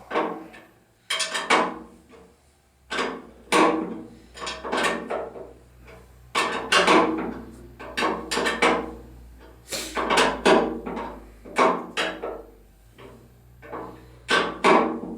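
Repeated sharp metal clanks and knocks from tools tightening down the fuel tank on a Fuller & Johnson hit-and-miss engine, one stroke every half second to a second, each with a short ring.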